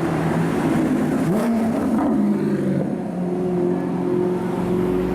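Car engine running, with a short rev rising in pitch about a second and a half in, then settling back to a steady note.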